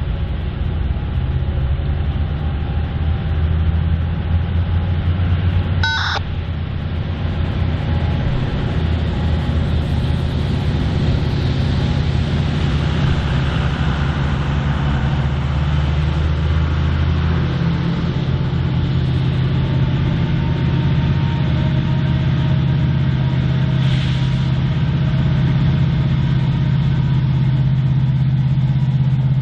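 Diesel freight locomotive engines running with a steady low rumble. The engine note shifts about two-thirds of the way through, and a short sharp sound comes about six seconds in.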